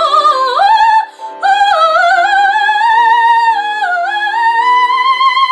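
A woman singing a show tune in a trained, operatic style with vibrato, over piano accompaniment. After a short break about a second in, she holds one long note that climbs in pitch.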